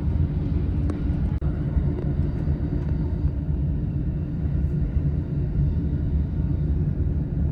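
Steady low rumble of a JR East Shonan-Shinjuku Line electric commuter train running along the track, heard from inside the passenger car.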